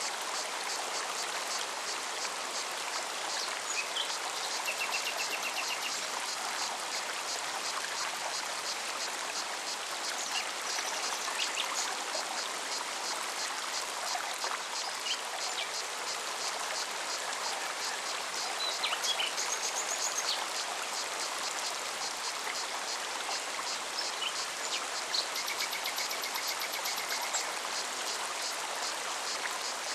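Mountain forest stream running steadily over rocks, with a cicada's fast pulsing song going on throughout and a few short bird calls now and then.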